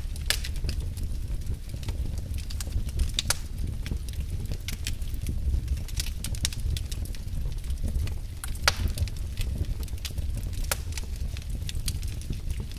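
Wood fire burning in a fireplace: a steady low rumble of flame with irregular sharp crackles and pops, one louder pop near the end.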